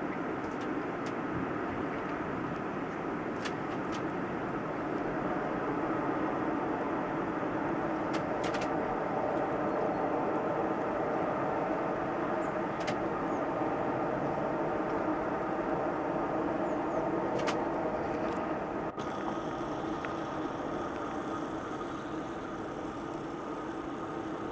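Steady rumble of an aircraft passing overhead, swelling slowly to its loudest about halfway through and then easing off. The high hiss changes abruptly near the end.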